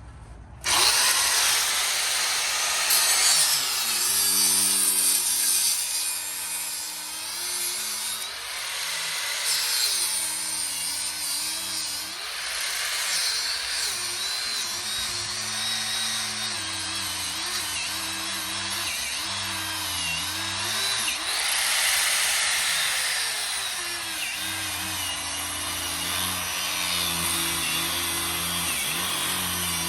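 Angle grinder starting about a second in and running continuously while cutting through a tire on a wheel. Its motor pitch repeatedly dips and recovers as the disc bites and is eased off.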